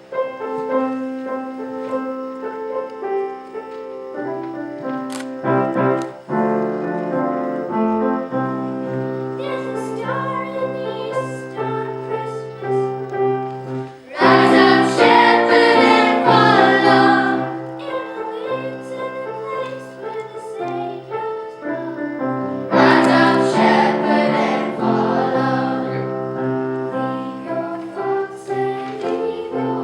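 Choir singing with piano accompaniment. The music swells loudest about fourteen seconds in and again about twenty-three seconds in.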